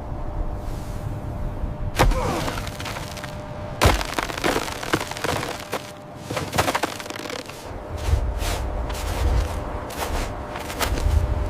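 A series of sharp cracks and knocks, the loudest about two and four seconds in, over background music, with a low rumble rising in the second half.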